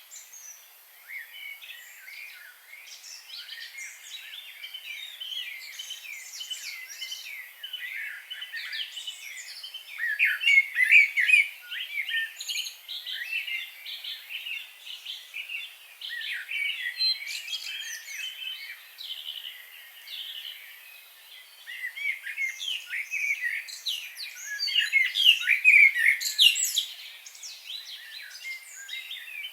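Several birds singing and chirping at once in dense, overlapping high-pitched calls and trills, with louder spells about a third of the way in and again near the end.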